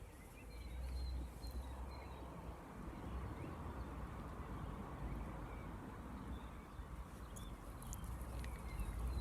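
Faint outdoor ambience: small birds chirping in short high calls over a steady low rumble.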